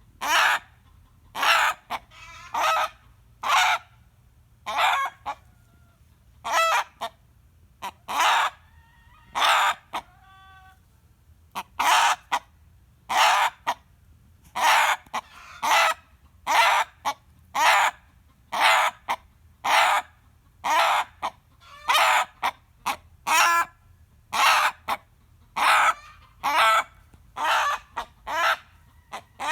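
A rooster screaming: short, harsh, loud calls repeated about once a second, his usual reaction to a hen cackling. Around eight to eleven seconds in, the loud calls give way briefly to fainter, more tuneful calls.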